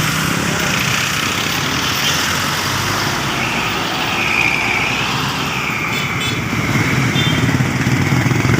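Heavy street traffic: engines of cars and motorcycles running in a continuous low hum and rumble. A high wavering tone rises and falls about four to six seconds in.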